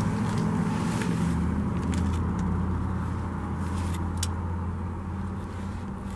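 2015.5 Volvo XC60 T6 AWD engine idling steadily, heard from the cabin, with a few light clicks of handling over it.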